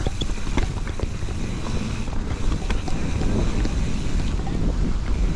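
Mountain bike descending a rough trail, heard through an action camera's microphone: heavy wind buffeting the mic, with frequent rattling clicks and knocks from the bike over the ground.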